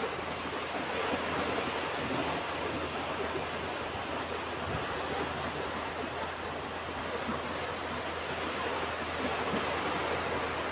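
Ocean surf washing onto a beach: a steady rush of breaking waves that swells a little as the waves come in.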